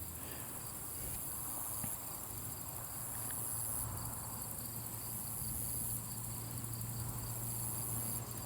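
Insects chirring steadily in a high-pitched chorus, with a faint rapid pulsing beneath it and a low steady hum underneath.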